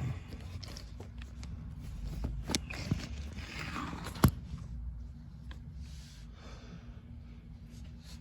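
Handling noises: scattered clicks and knocks with some rustling, the sharpest click about four seconds in, over a low steady hum.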